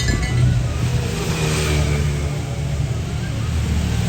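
Motor vehicle engines running close by, mixed with a steady hiss.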